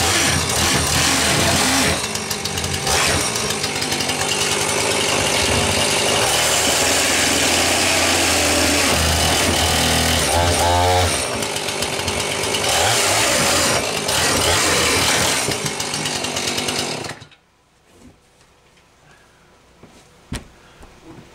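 Gas chainsaw running hard while cutting through a wooden desk, then stopping abruptly about seventeen seconds in. A few faint knocks and clicks follow.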